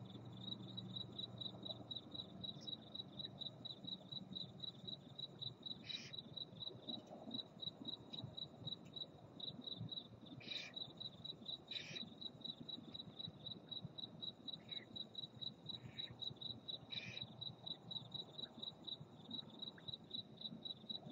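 A cricket chirping steadily at about four chirps a second, with several brief, higher calls breaking in now and then.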